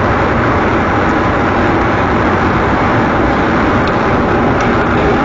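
Steady engine and road noise of a moving vehicle, heard from inside it, without any sharp impacts.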